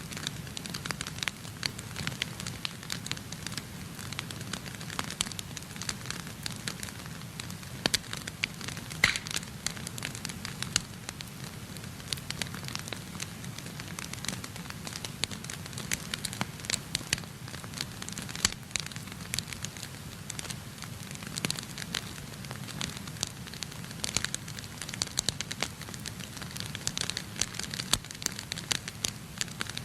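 Wood fire burning in a fireplace: dense, irregular crackles and pops from the burning wood over a steady low rumble of the flames.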